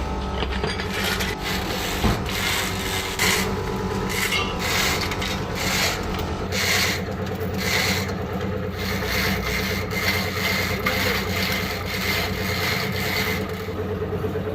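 Repeated scraping strokes of a hand tool worked over a metal part, about two to three a second, over a steady hum. The strokes stop about a second before the end.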